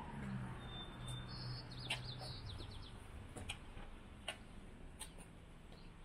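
A small songbird singing: one thin, high, held whistle, then a quick run of short high notes. A low hum and a few sharp taps sound under it.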